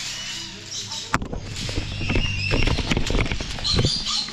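Birds suddenly turn loud: about a second in a sharp crack starts an irregular clatter of knocks lasting about three seconds, with high chirping calls over it.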